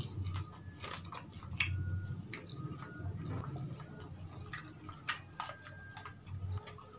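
A person chewing food with open-mouthed wet smacks and irregular mouth clicks.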